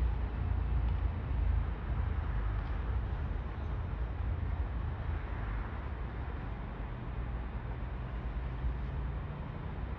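Steady low rumble of a train, easing slightly toward the end.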